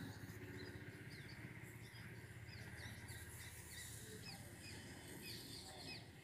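Birds chirping faintly: many short, quick chirps, several a second, over a low steady background rumble.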